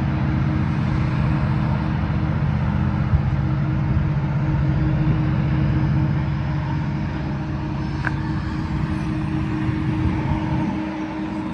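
Norfolk Southern SD70ACU diesel helper locomotives shoving a heavy freight train, giving a steady low engine drone over rolling noise. The sound eases off a little near the end.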